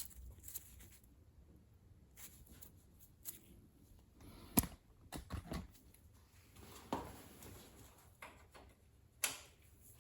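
Scattered clicks and knocks of tools and metal parts being handled during motorcycle engine work, the sharpest about four and a half seconds in and another near the end.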